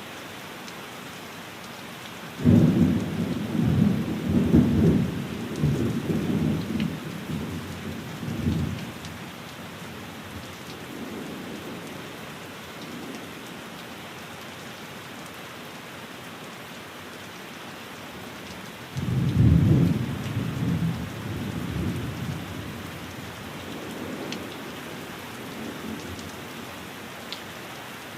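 Steady rain on a window, with two rolls of thunder: the first breaks suddenly about two seconds in and rumbles on for several seconds, the second breaks about two-thirds of the way through and fades more quickly.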